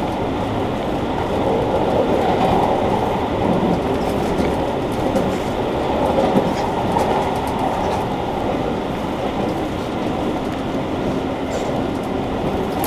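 JR Kyushu 883 series electric train with Toshiba GTO inverter drive, running at speed: a steady rolling rumble of wheels on rail with a faint running whine.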